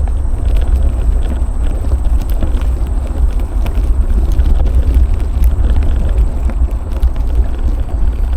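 Steady low wind buffeting on the microphone while cycling, with tyre rumble and scattered small clicks and ticks from the ride.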